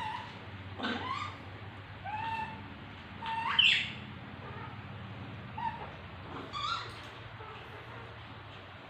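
Baby monkey calling: about five short, high, whistle-like coos and squeals, some sliding upward in pitch. The loudest is about three and a half seconds in.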